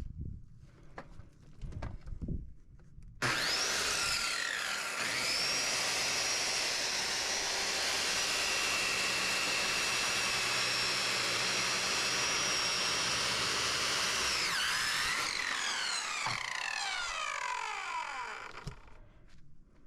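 Electric power tool motor switched on about three seconds in. It spins up to a steady high whine, holds for about ten seconds, then is switched off and winds down over several seconds.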